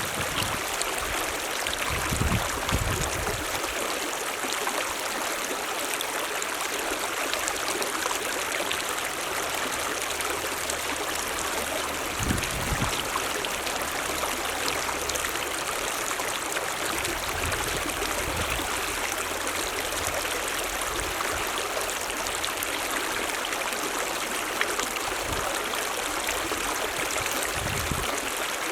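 Mountain stream running, a steady rushing of water, with a few brief low bumps.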